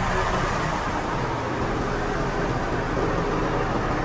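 Steady mechanical hum with a low rumble, even throughout.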